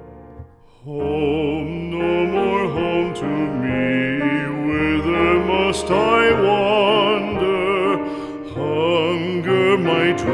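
Song with a classically trained voice singing with strong vibrato over piano accompaniment, entering about a second in after the piano introduction dies away.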